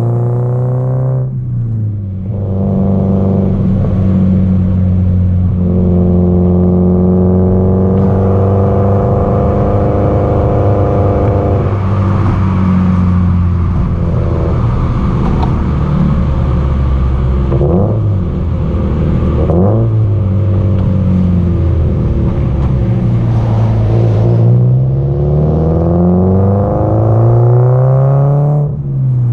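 Exhaust note of a Subaru Impreza WRX STI (GDB-E), a turbocharged flat-four, under way at speed: revs climb and drop at two gear changes in the first few seconds, hold fairly steady through the middle, then fall away and climb again near the end.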